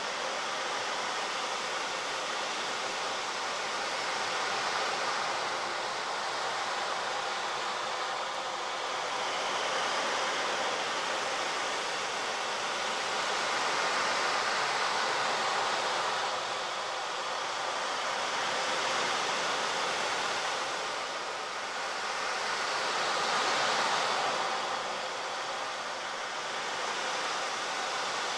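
Steady rushing noise, like a constant hiss or rush of air or water, swelling and easing gently every few seconds.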